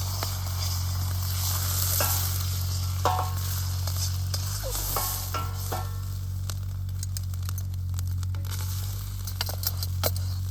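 Food sizzling in a hot iron wok while a metal ladle scrapes and clinks against the pan, with a few short metallic rings, over a steady low hum.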